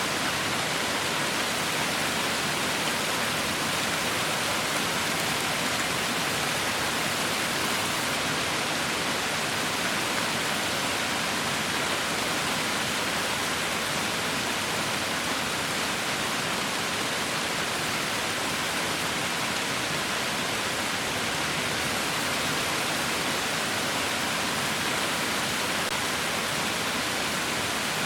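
Heavy rain falling steadily, an even hiss with no distinct drops or thunder.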